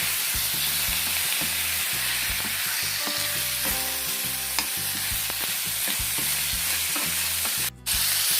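Chicken sizzling in hot oil with onions and spices in a pan while it is stirred, with occasional clicks of the spoon against the pan. The sound cuts out briefly near the end.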